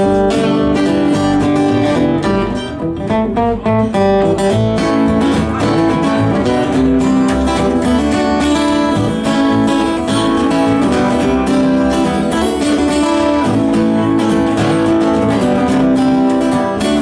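Live band playing an instrumental passage of a song without vocals, with acoustic guitar strumming to the fore.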